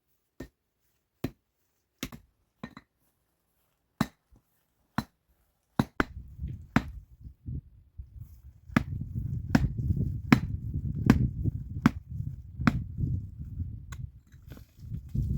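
Repeated sharp knocks of a tool striking wood, roughly one a second, about fifteen in all. A low rumbling noise sets in about six seconds in and grows louder from about nine seconds.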